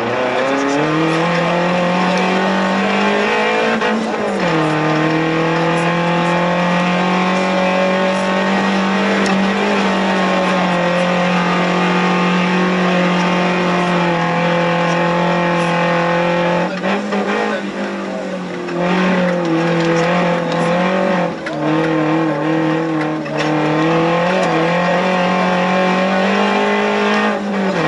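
Suzuki Jimny 1300 16S's 1.3-litre 16-valve four-cylinder engine under hard acceleration, heard from inside the cabin. The revs climb, drop sharply on a gear change about four seconds in, then hold high before several quick lifts and pick-ups in the second half.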